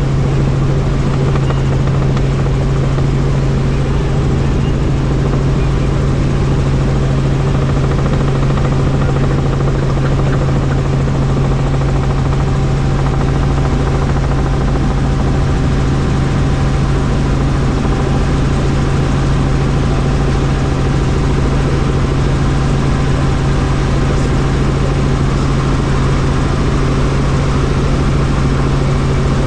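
Helicopter in flight: a steady, loud drone of rotor and turbine with a strong low hum that holds unchanged throughout.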